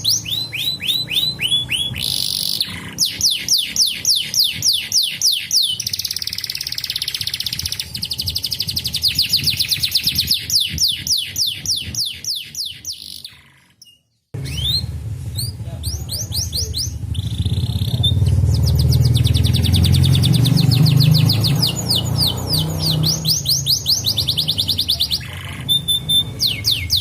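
Domestic canary singing: fast trills of repeated, quickly falling high notes, one roll following another. About halfway the song fades out briefly and then starts again, now with a low hum beneath it.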